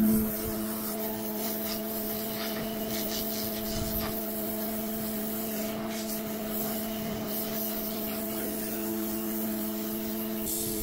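Pressure washer running steadily, its motor humming under the hiss and rasp of the water jet on the patio surface.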